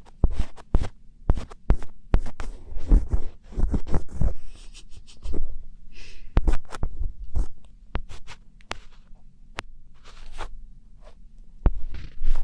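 Close-miked ASMR "karikari" sounds: crisp scratching and crunching right at the microphone, in quick irregular sharp clicks and short scrapes, with a steady low hum underneath.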